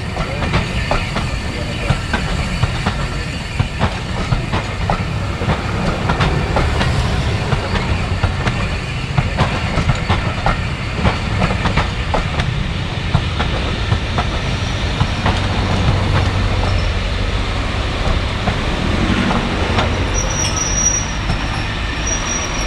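Steam-hauled passenger train rolling past close by. The coach wheels click over rail joints above a steady low rumble.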